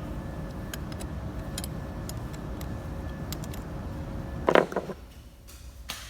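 A vehicle engine running with a steady low rumble and scattered light ticks. A short, loud clatter comes about four and a half seconds in, and the rumble stops just after it.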